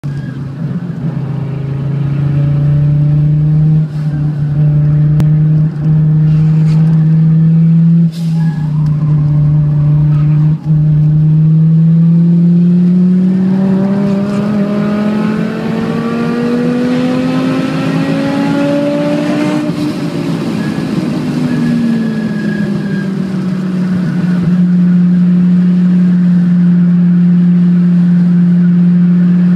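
Turbocharged 20-valve inline-five of an Audi 90 quattro, heard from inside the car on track: the engine holds steady revs with a few brief drops, then climbs in pitch through a long pull for about eight seconds, falls away as the car slows, and settles to steady revs again.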